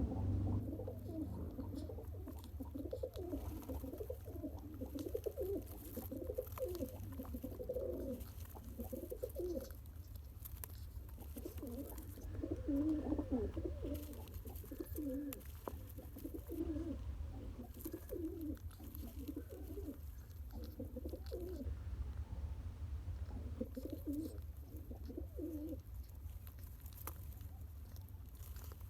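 Domestic pigeon cooing in repeated phrases of low, wavering notes with short pauses between them, over a steady low hum.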